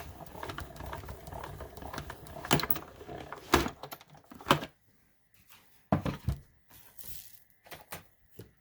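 Hand-cranked cut and emboss machine turning, rattling and clicking as a plate sandwich with a 3D embossing folder feeds through the rollers; the cranking stops about four and a half seconds in, followed by a few separate knocks of the plates being handled.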